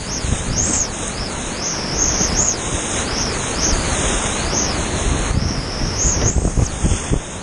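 Creek whitewater rushing and splashing steadily around a kayak, heard from the boat.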